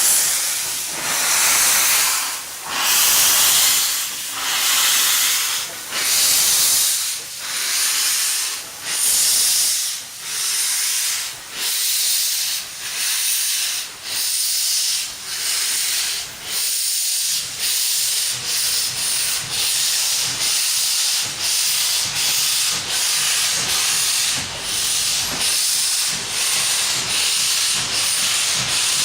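FD-class 2-10-2 steam locomotive FD20-1679 pulling away with a train, its exhaust chuffing in steady beats of hiss that come faster and faster, from about one every second and a half to about two a second, as it gathers speed.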